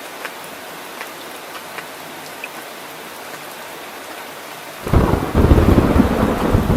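Steady rain falling, with scattered sharp drop ticks. About five seconds in, a loud, low rumble of thunder breaks in suddenly and keeps rolling.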